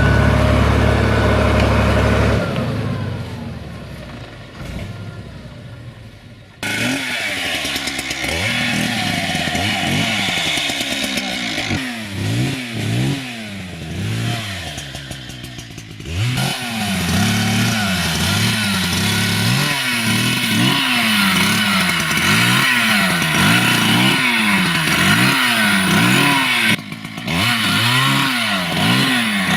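A tractor engine runs loudly for a couple of seconds, then fades. After a sudden cut, a chainsaw revs up and down over and over, about once a second, as it cuts through wood.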